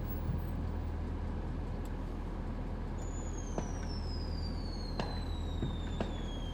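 Distant fireworks: a few sharp pops and a high whistle gliding steadily downward in pitch over about three seconds, over a steady low rumble like idling vehicle engines.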